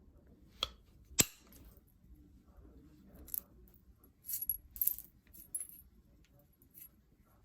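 Novaculite being knapped: two sharp clicks about half a second apart near the start, the second the loudest, then a run of lighter, high, ringing clinks in the middle.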